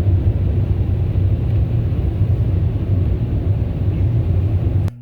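Automatic car wash air-dryer blowers rumbling steadily over the car, heard from inside the cabin; the noise stops abruptly near the end.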